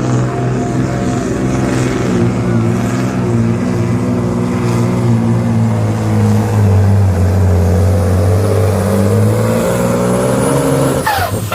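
Heavily modified diesel engine of a supersport pulling truck running hard under load during a pull, a loud steady drone. The engine note drops lower about halfway through, then cuts off suddenly shortly before the end.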